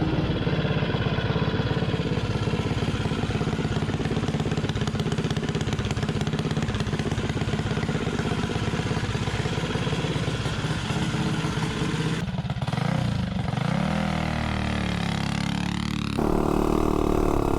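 Mini bike's Tillotson 225 single-cylinder engine, fitted with a Volts 330 cam, running steadily under load. About twelve seconds in it drops off, then revs up again in a rising climb. The sound changes abruptly shortly before the end.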